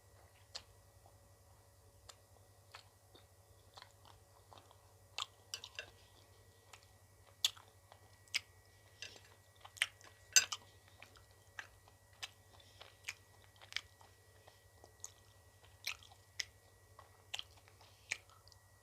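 Close-up mouth sounds of someone eating ice cream: irregular sharp crunches, bites and wet chewing clicks, a couple of seconds apart at first and coming thicker in the middle.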